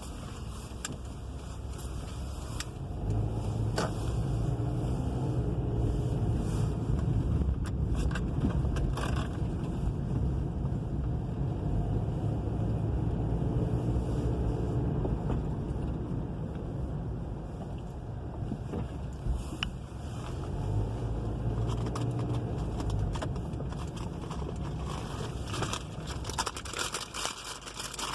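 Car cabin noise while driving: a steady low engine and road rumble that grows louder about three seconds in, eases off for a few seconds about two-thirds through, then picks up again, with a few faint clicks.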